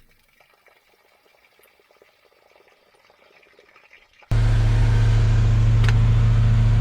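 Near silence for about four seconds, then a boat's Volvo Penta sterndrive engine idling, cutting in abruptly at a loud, steady level with a low hum, and a brief click near the end.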